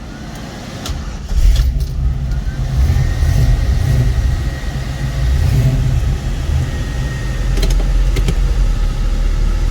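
A car engine, the 1963 Chevrolet Nova's, running with a steady low rumble that builds up over the first second and a half.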